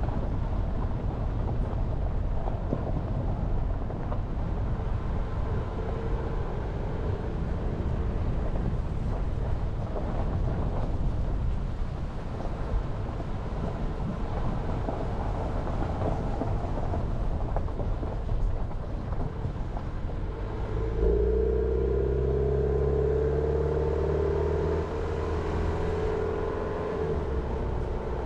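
Jeep Renegade driving, with steady engine and road noise. About two-thirds of the way in, the engine note comes up stronger and rises slightly for several seconds, then drops back.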